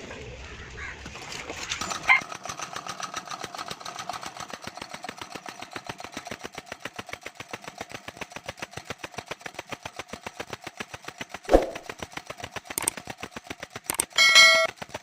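Small diaphragm-type air compressor running, with a rapid, even pulsing and a steady hum. A sharp knock comes a few seconds before the end, then a brief loud pitched blast.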